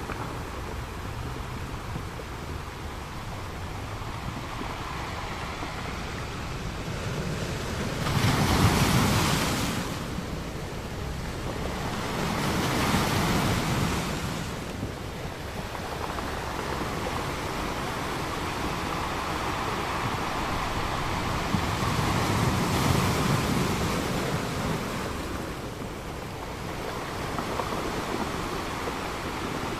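Ocean waves breaking on a beach, a steady wash of surf with the loudest wave crashing about nine seconds in and further swells around thirteen and twenty-three seconds. Some of the noise may be wind on the microphone.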